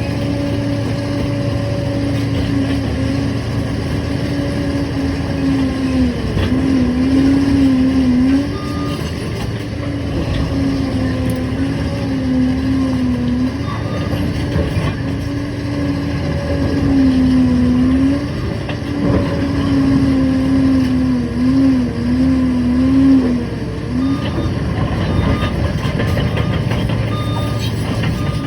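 Liebherr 746 crawler dozer running under load, a loud steady engine tone that dips and wavers several times as the load changes. Faint short beeps sound near the end.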